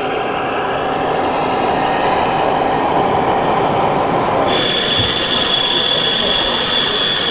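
Electric motors and gearing of scale RC construction machines running, with a metallic clatter. About four and a half seconds in, the sound changes abruptly and a steady high whine sets in.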